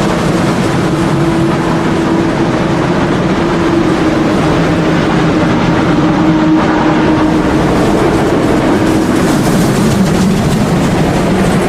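Märklin model steam locomotives hauling a long train of model coke wagons on the layout: a steady motor hum and the rumble of wheels on the track. The hum dips slightly in pitch near the end.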